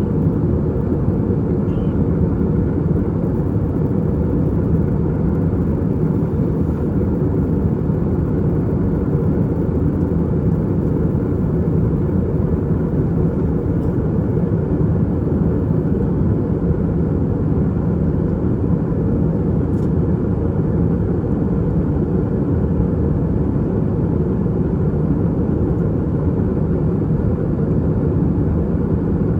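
Steady low cabin drone of an Airbus A320-232 in flight: its IAE V2500 engines and the airflow over the fuselage, heard from a window seat.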